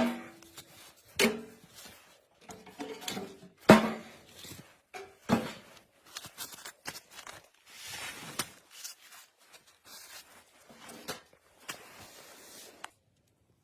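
Irregular knocks and thuds with short scraping and rustling between them, about a dozen hits, some with a brief ring, stopping near the end.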